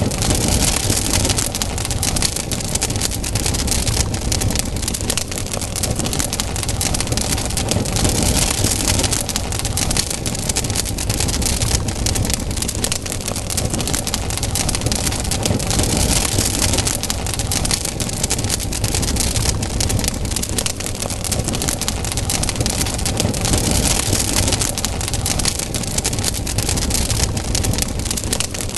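Campfire crackling and hissing, with a dense stream of small pops over a steady low rumble; the hiss swells and eases every few seconds.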